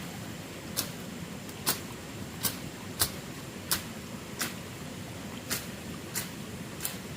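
A series of sharp knocks or taps, about nine of them, roughly one every three-quarters of a second and not quite evenly spaced, over a steady low background noise.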